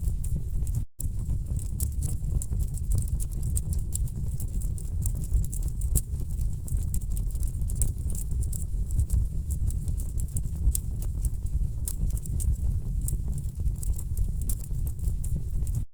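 Wood fire burning in a fireplace: a dense stream of sharp crackles and pops over a steady low rumble of burning logs. The sound drops out completely for a split second about a second in.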